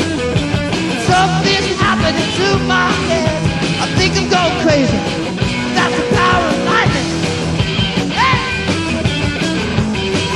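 Rock band playing loud punk-style rock, with sung and shouted vocals over electric guitar and drums.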